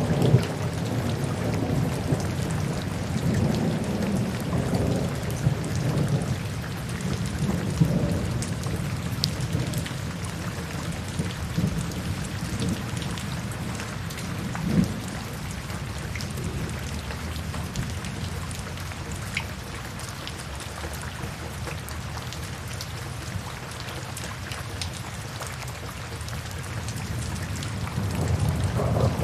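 Steady rain with rolling thunder, a deep rumble that is heaviest over the first several seconds, dies down through the middle and swells again near the end.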